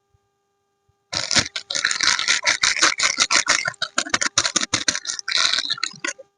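Soap packaging being crinkled and pulled open by hand: dense, rapid rustling and crackling that starts about a second in and lasts about five seconds.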